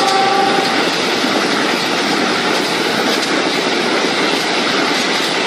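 Passenger train coaches rolling past close by, a loud, steady rush and rumble of steel wheels on the rails. A horn sounds a chord of several steady notes that ends a little under a second in.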